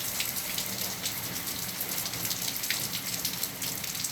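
Steady rain falling, a constant hiss with many separate drops ticking sharply close by.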